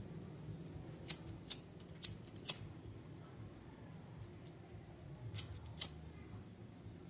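Six short, sharp clicks, coming in three pairs about half a second apart.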